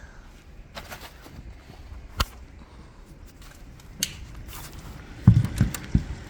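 Scattered clicks and knocks in a small room, then three dull thumps close together near the end, the loudest of them: someone getting up and moving about, handling things.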